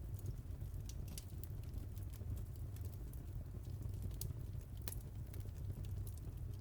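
Wood fire crackling: scattered sharp pops and snaps over a steady low rumble of the burning logs, one louder pop a little before the five-second mark.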